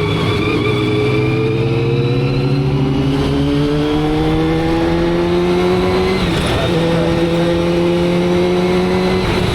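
Motorcycle engine pulling through a gear with its pitch climbing steadily, then an upshift about six seconds in, after which it runs at a steady pitch.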